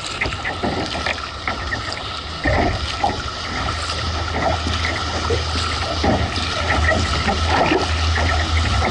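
Water splashing and sloshing over a low, steady drone of a motorboat engine that grows louder from about two and a half seconds in.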